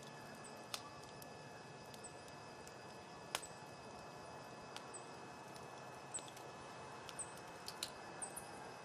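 Campfire crackling: scattered sharp pops and snaps from the burning wood over a faint steady hiss, the loudest pop a little over three seconds in and the pops coming more often near the end.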